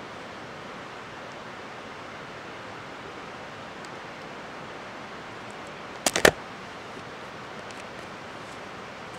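Steady rushing outdoor noise, like running water or wind, with a quick cluster of three or four sharp clicks about six seconds in.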